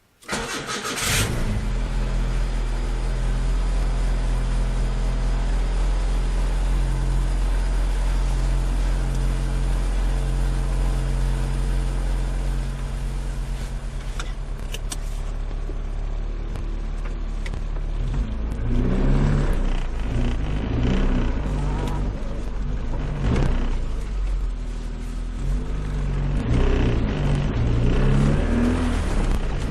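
Nissan Micra 1.3 engine through a custom exhaust, running at steady revs with a deep, droning exhaust note. From about 18 seconds in, the revs rise and fall several times. The drone is the exhaust resonance that the owner plans to cure with a J-pipe tuned to it.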